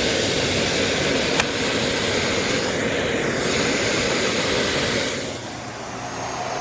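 Miele Boost CX1 bagless canister vacuum cleaner running at maximum suction with the floor head attached, a loud steady whoosh of motor and airflow. A little after five seconds in it drops in level as the power is turned down.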